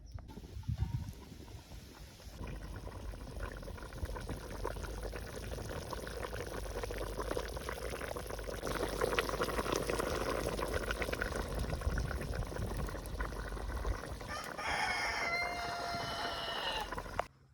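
A rooster crows once near the end, a single call of about three seconds. Before it, a steady crackling and rustling noise full of small clicks.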